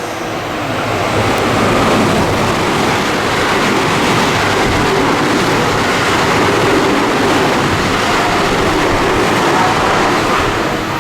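A JR West train running through a station without stopping: a loud, steady rush of wheel and rail noise that builds over the first second or two and eases near the end.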